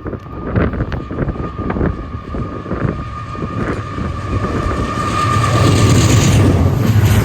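Train rolling past, its wheels clicking over rail joints, with a steady high tone over the noise. A low rumble grows louder about five seconds in.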